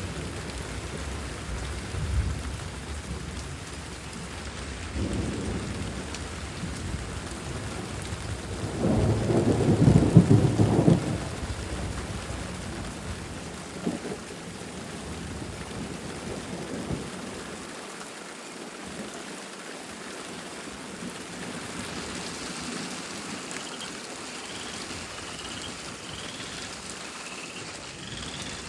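Heavy rain falling steadily through a thunderstorm, with rolling thunder rumbling again and again. The biggest, loudest peal comes about nine to eleven seconds in.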